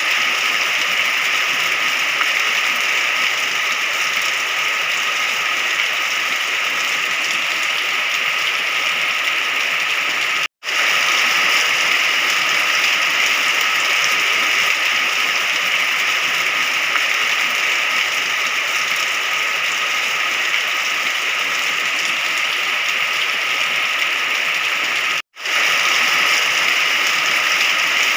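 Steady rain, an even hiss strongest in the upper middle range. It cuts out to silence for an instant twice, about ten and twenty-five seconds in.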